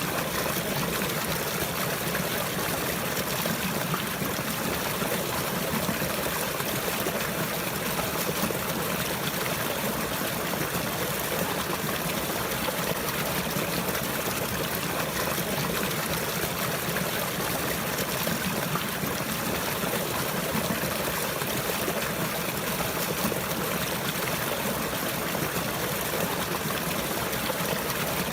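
Running water flowing and trickling steadily, like a small stream, with no pauses or changes.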